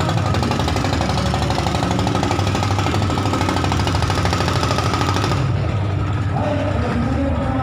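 Engine of a small motorboat running steadily with a fast, even knocking beat; the sharper upper part of the sound falls away about five seconds in.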